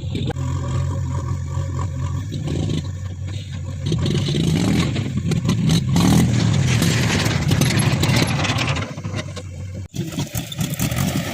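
Heavy diesel engine running, then revving up about four seconds in, its pitch rising and falling again around six seconds before it eases back; there is a sudden brief drop-out near the end.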